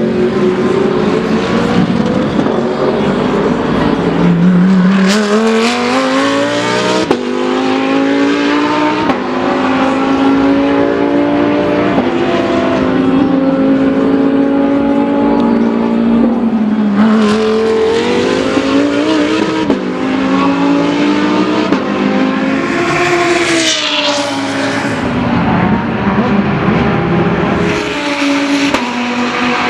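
GT3 race car engines at full throttle, several cars passing in turn. The engine notes rise through the gears and drop on the overrun.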